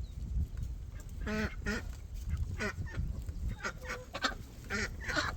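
Birds calling: a run of about eight short calls, one after another, starting about a second in, over a low rumble.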